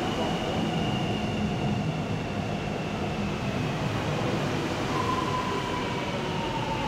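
A train running on the rails: a steady rumble with a high whine that glides slowly down in pitch, joined about five seconds in by a second, lower whine that also falls.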